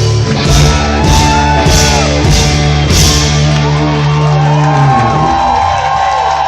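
Live rock band playing loud, a held low chord struck with five crashes about every 0.6 s, then a sustained high note ringing out over the band near the end.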